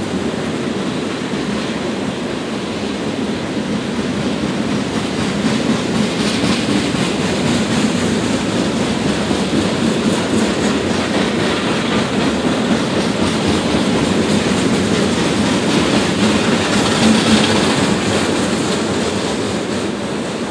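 Freight train tank cars rolling across a concrete rail bridge: a steady rumble of steel wheels on rail with the clickety-clack of wheels over rail joints, briefly a little louder and hissier about three quarters of the way through.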